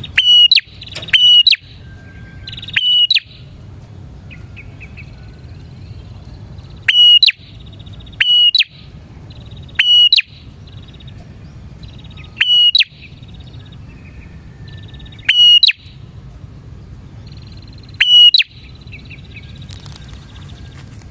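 Prinia (prenjak) calling vigorously, with loud, sharp, strident notes repeated every one to three seconds and softer buzzy trills between them, over a steady low hum.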